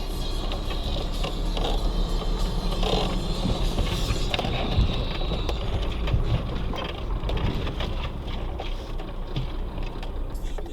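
Vehicle on the move, a steady low rumble with loose rattling and clicking over it, which drops away at the very end as the vehicle stops.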